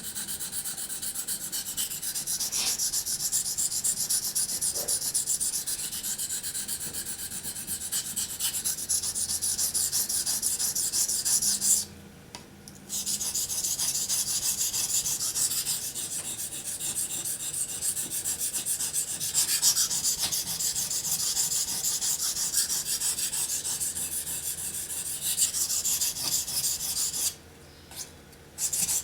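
Steel knife blade stroked back and forth on a wet sharpening waterstone, a continuous rasping scrape, giving the knife its initial edge. The scraping stops briefly twice, near the middle and near the end.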